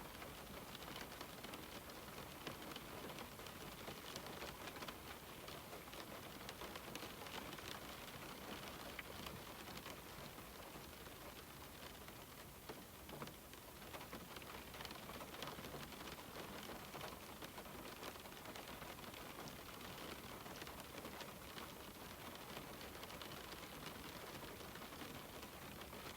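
Steady rain falling on a window: an even hiss with many small drop taps.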